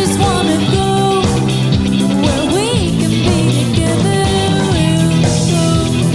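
Funk rock band playing live, an instrumental stretch with a melodic lead line that bends and slides in pitch over a steady groove.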